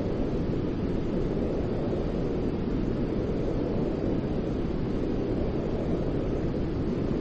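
Steady white noise played as a baby sleep aid: an even, unbroken rush without tones or pauses, deep and rumbling rather than hissy.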